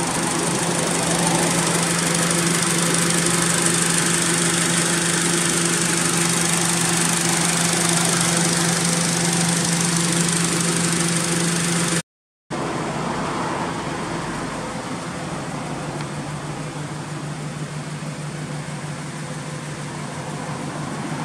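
Honda Civic Type R Euro (FN2)'s four-cylinder engine idling steadily, heard up close under the open bonnet with a steady high hiss. After a cut about 12 seconds in, the idle goes on a little quieter, with less hiss.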